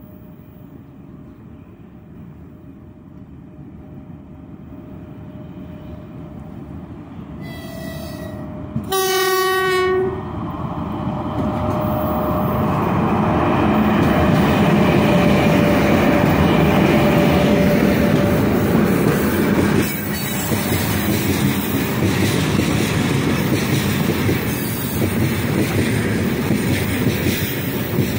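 Freight train hauled by a 3ES5K 'Ermak' electric locomotive approaching and growing louder, its horn giving a short note and then a louder blast of about a second, the friendly crew's greeting. The locomotive and a long string of freight wagons then pass close by with loud, steady wheel-on-rail noise and clatter.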